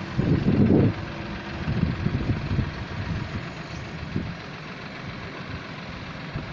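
Tractor engine running, with loud low surges in the first second and again about two seconds in, then settling to a steadier, quieter run.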